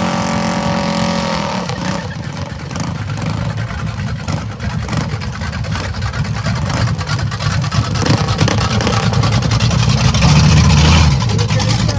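Minibike engines running hard in a drag race. A steady engine note in the opening second and a half gives way to loud, rough running that grows loudest and then drops off about eleven seconds in.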